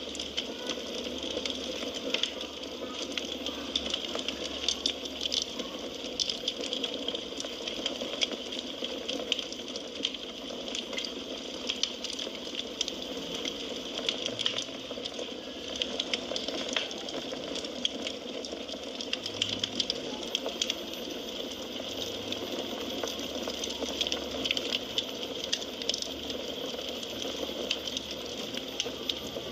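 Wood fire burning in a fireplace: a steady hiss with frequent small crackles and pops throughout.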